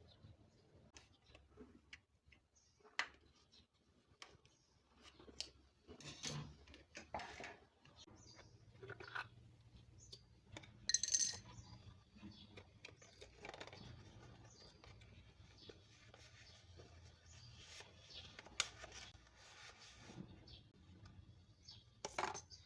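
Faint, scattered clinks, taps and knocks of small hard objects being handled, the sharpest clink about halfway through, over a low steady hum that sets in about a third of the way in.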